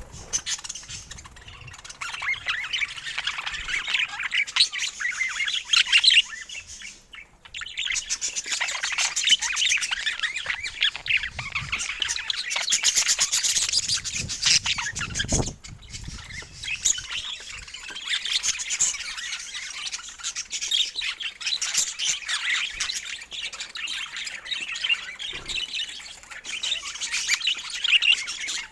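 Budgerigars chattering and chirping continuously, a dense run of rapid warbling and squawky calls, with a short pause about seven seconds in.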